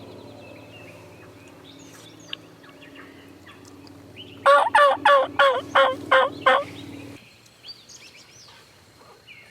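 Wild turkey calling close by: a loud run of about eight evenly spaced notes, each falling in pitch, starting about four and a half seconds in and lasting about two seconds. A steady low hum runs underneath and stops shortly after.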